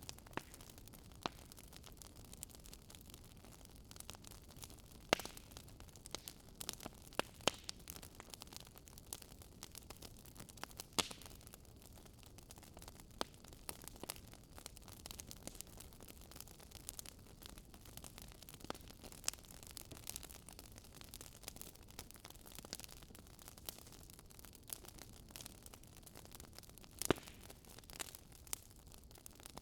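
Wood fire crackling: irregular sharp pops and snaps over a faint steady hiss. The loudest pops come about five seconds in and near the end.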